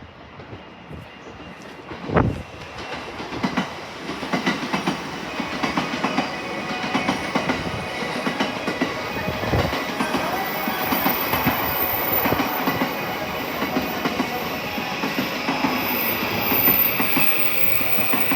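A train running along the platform track, its wheels clicking over the rail joints in a quick rapid run. It gets louder over the first few seconds after a single knock, then holds steady, with faint high-pitched tones in the second half.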